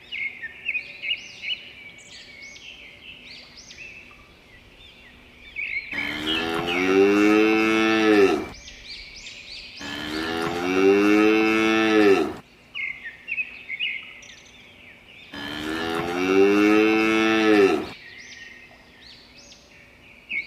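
Cows mooing: three long moos, each rising slightly and then falling, with small birds chirping between them.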